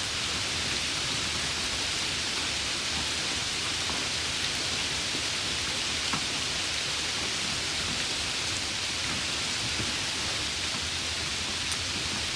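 Steady rain falling, an even hiss with a faint low rumble beneath and a couple of single drop ticks, one about halfway through and one near the end.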